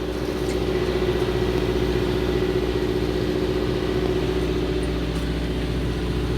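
Fishing boat's engine running steadily, a continuous low hum with a steady drone.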